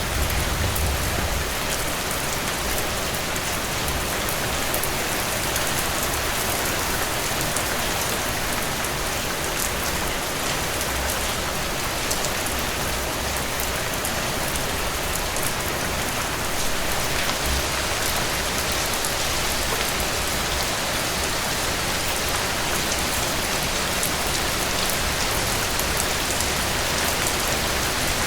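Heavy rain falling steadily on a cabin porch and roof: a dense, even hiss with scattered faint ticks of individual drops and a low rumble underneath, unchanging throughout.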